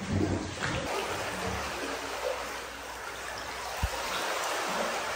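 Seawater washing and trickling among granite boulders, a steady rush, with a single short thud nearly four seconds in.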